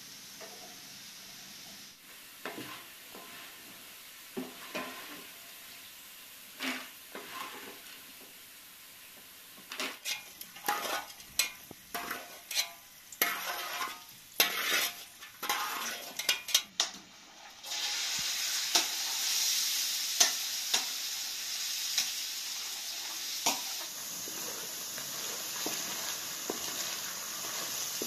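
A few light taps, then diced potato scraped off a plate with a spoon into hot oil in a frying pan, with a quick run of clatters and spits. The oil then settles into a steady sizzle, with the occasional scrape of a wooden spatula stirring the cubes.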